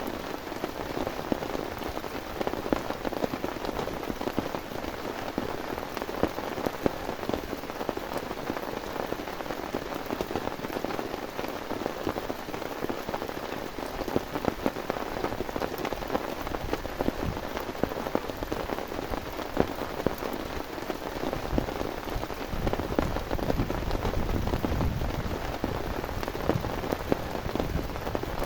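Heavy rain falling steadily, with many separate drop hits close by. A low rumble swells in about three-quarters of the way through.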